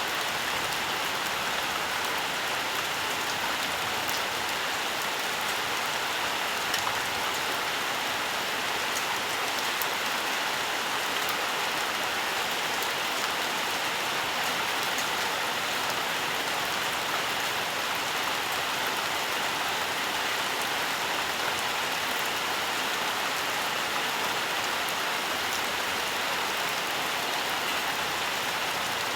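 Steady rainfall: an even hiss of rain with scattered small drop ticks, unchanging throughout.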